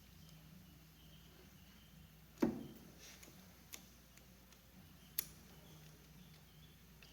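Metal parts of a lathe compound knocking and clicking as it is set on its mount and its hold-down nuts are started. There is a solid knock with a short low ring about two and a half seconds in, a small click, and a sharp clink about five seconds in, over a low steady hum.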